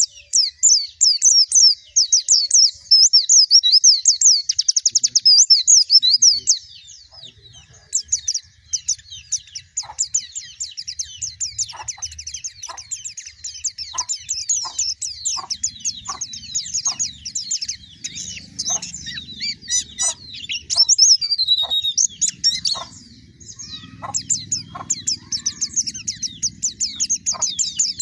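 White-eye (pleci) song: long runs of rapid, high twittering chirps with hardly a break. From about ten seconds in, a steady series of short ticks runs under the song for some twelve seconds.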